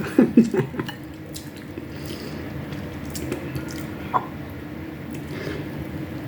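Close-miked wet chewing and mouth sounds of someone eating, with a cluster of louder smacks in the first second and scattered clicks after, over a steady low hum.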